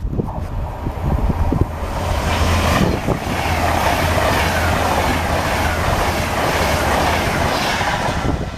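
A train passing along the track: a loud, steady rush of wheels on rails over a low rumble, building about a second in and falling away near the end.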